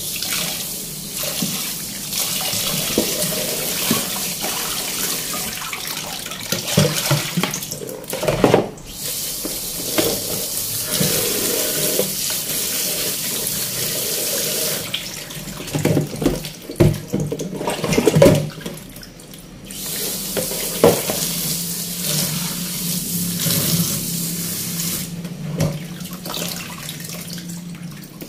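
Kitchen faucet running into a bowl of moringa leaves in the sink, with splashing and leaves rustling as hands wash them. The rush of water dips briefly a few times.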